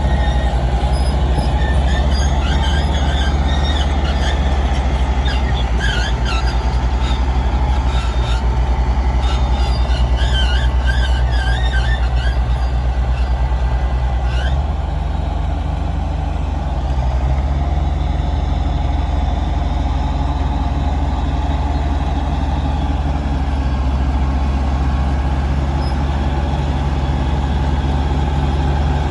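Heavy diesel earthmoving machine running under steady load, with a deep engine drone. High, chirping metallic squeals come and go over the first half and stop about halfway in, when the engine note shifts lower.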